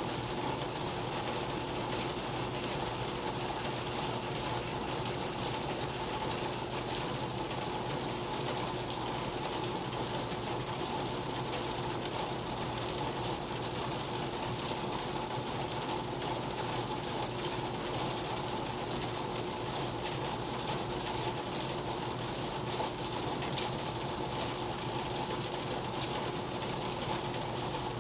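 Steady rain, with dense drops ticking and pattering close by and a few louder drops a little before the end.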